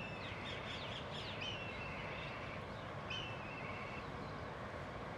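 Birds calling outdoors: a string of short, downward-sliding high notes, then two longer, level high calls about a second and a half apart, over a steady background hiss of outdoor noise.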